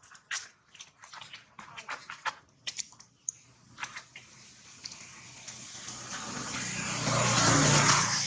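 Scattered small clicks and taps, then a passing vehicle whose noise swells over a few seconds, loudest near the end.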